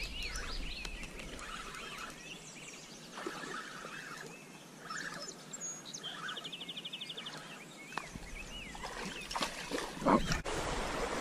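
Songbirds singing, with short rising-and-falling whistled notes and a fast even trill about six seconds in. Near the end come a few knocks and rustling as the phone is swung about.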